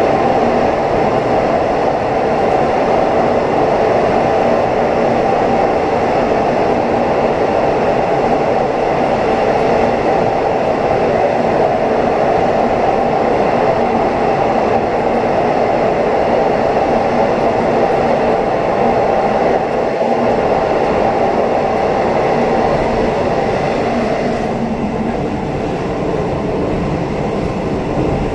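Passenger train running at speed through a tunnel, heard from inside the carriage: a loud, steady rumble of wheels on rail. About 24 seconds in the sound thins and drops a little as the train leaves the tunnel.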